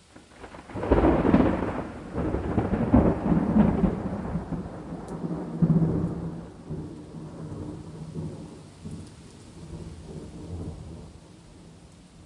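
Thunder over steady rain: a sudden loud crack about a second in, then rolling rumbles that swell again around three and six seconds and slowly die away.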